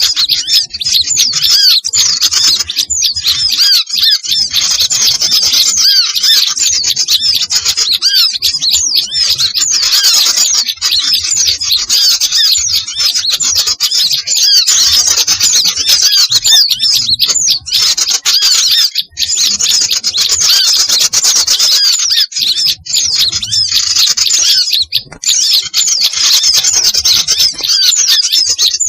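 Dense, unbroken chatter of many small songbirds chirping and calling at once, with short curved notes overlapping throughout: a bird-lure recording mixing small-bird calls to draw wild birds in.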